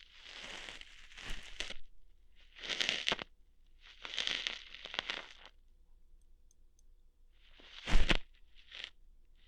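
ASMR ear-hair plucking sounds close on the microphone: crackling, tearing noises in several short clusters, the loudest, with a thump, about eight seconds in.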